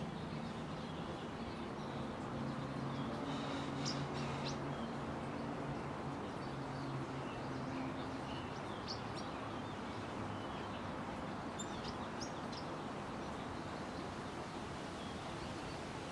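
Short, high chirps from a small songbird, in a few scattered clusters, over a steady low background hum.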